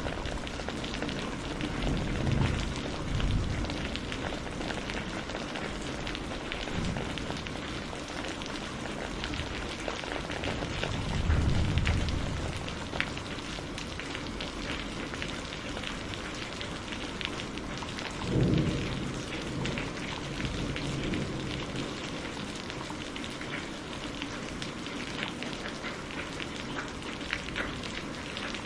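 Steady rain falling on surfaces, with many fine drop patters, and distant thunder rumbling low three times: briefly about two seconds in, longest and loudest around eleven seconds in, and once more with a sharper onset near eighteen seconds.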